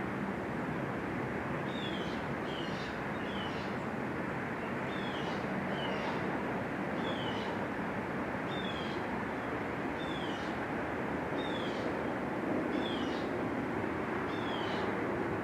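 A small animal repeating a short, high, downward-sliding call about once a second, over a steady background noise.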